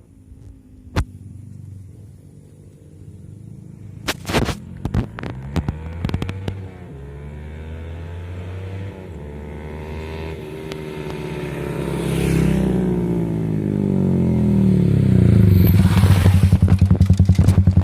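Motorcycle with a WRX GP K1 aftermarket exhaust ridden toward the listener: a series of sharp pops about four seconds in, then the engine note swells and bends in pitch, loudest with rapid exhaust pulses near the end.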